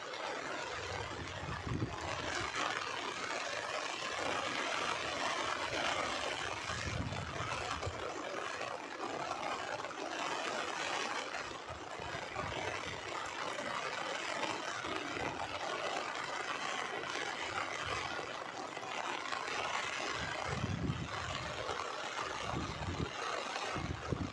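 Heavy monsoon rain pouring down in a steady, dense hiss. A few brief low rumbles break through, about a second in, around seven seconds in and again near the end.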